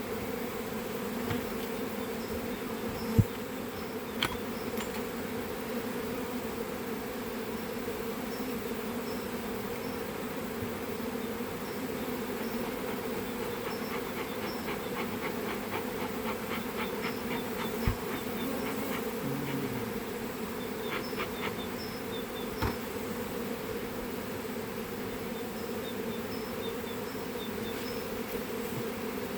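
Honeybees buzzing in a steady drone, with a few sharp knocks and short runs of rapid clicking partway through.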